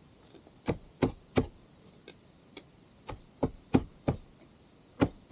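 A series of sharp knocks and clicks at an irregular pace, about ten in all, with no engine running.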